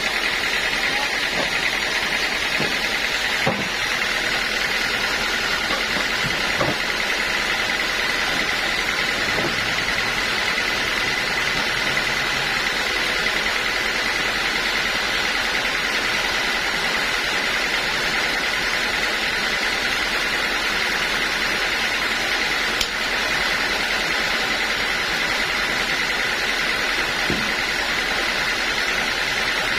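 Sawmill machinery running steadily with a constant high whine, with a few faint knocks.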